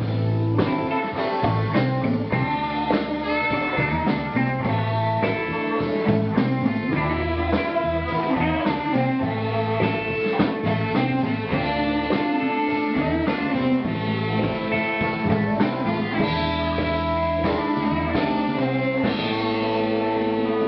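Live blues band playing, with guitar leading over a bass line and drums.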